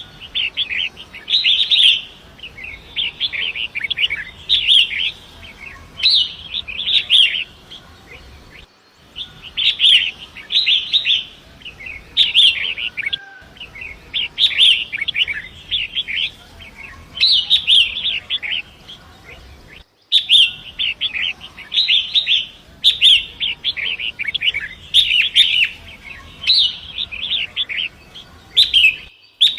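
Long-tailed shrike (pentet) singing: repeated bursts of scratchy, chattering phrases a second or two long with short pauses between, over a faint steady rush of river water.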